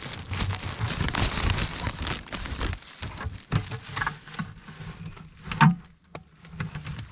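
Irregular pattering and splashing with plastic rustling as maple sap is handled and collected into a plastic freezer bag. There is one sharper knock late on.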